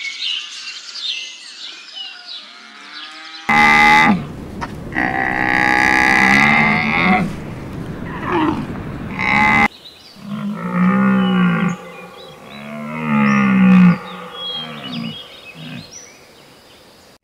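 Animal calls in several separate clips: chirping for the first few seconds, then loud, drawn-out calls, then a run of shorter calls that rise and fall in pitch, each about a second long.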